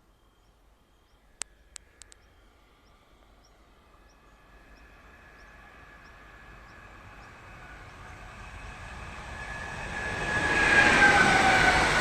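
A train approaching: its rumble builds steadily and is loudest near the end, with a whine that dips slightly in pitch as it draws near. A few sharp clicks come about a second and a half in.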